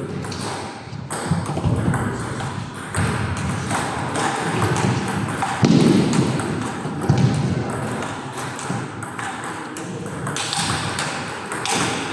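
Table tennis balls clicking sharply off paddles and tables in quick, irregular succession, over a background murmur of voices.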